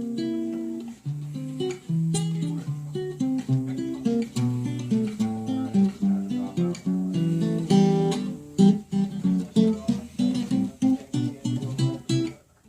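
Washburn guitar, freshly recalibrated with a truss-rod adjustment, played note by note in arpeggio runs up and down the neck, the notes coming quicker in the second half.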